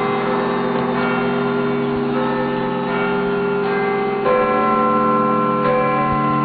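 Big Ben and the clock tower's bells ringing out at the New Year: a new stroke about every second, each laying its tone over the long hum of the earlier ones.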